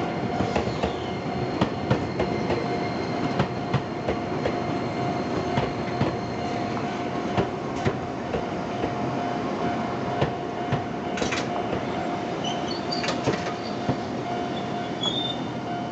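Enoden electric train passing over a level crossing: a steady rumble with irregular sharp clacks as the wheels cross the rail joints, and short high wheel squeaks near the end. Under it the crossing's warning alarm rings on with a steady tone, its rhythm uneven.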